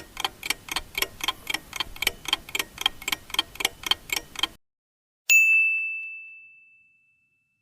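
Countdown timer sound effect: a clock ticking about four times a second, which stops, then a single bell ding that rings out and fades, signalling that the time to choose is up.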